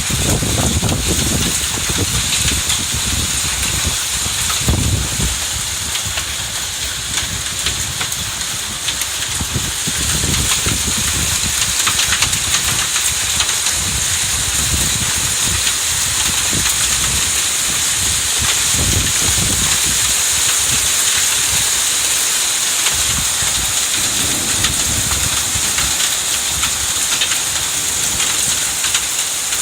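Heavy rain in a sudden summer thunderstorm downpour: a loud, steady hiss of rain with fine drop clicks, and irregular low rumbles coming and going, mostly in the first third.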